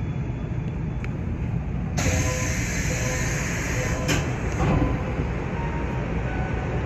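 Nankai 8300 series train standing at a station, its equipment making a steady low rumble. About two seconds in, a sudden hiss lasts about two seconds and ends in a sharp click.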